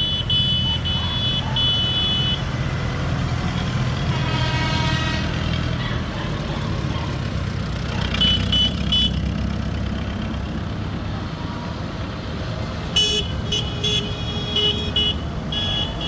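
Tractor engines running steadily, with a horn sounding for a couple of seconds about four seconds in. Runs of short, high-pitched beeps come near the start, briefly around the middle, and again in the last few seconds.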